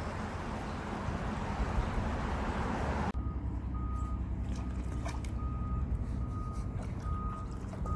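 Steady rushing of river water. About three seconds in it cuts to a vehicle's engine rumbling under a reversing alarm, one beep repeating about every three-quarters of a second.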